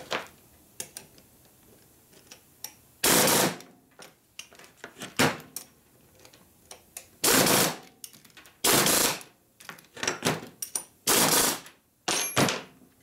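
Short blasts of compressed air, about half a second each and five or six in all, blowing grit out of Panhead rocker arm parts, with light metal clicks between them.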